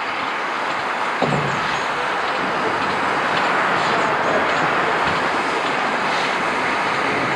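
Train rolling along the track: a steady rumble of wheels on rail that builds slowly, with a single sharp knock about a second in.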